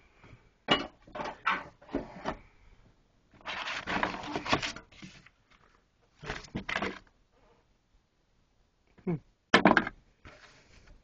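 Things being handled and moved about: a series of sharp knocks and clacks, with about a second and a half of rustling in the middle.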